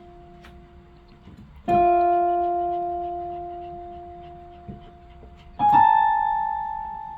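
Piano keys pressed one at a time by a pet, not played as a tune: a single note struck about two seconds in and a higher one about four seconds later, each left to ring and fade slowly.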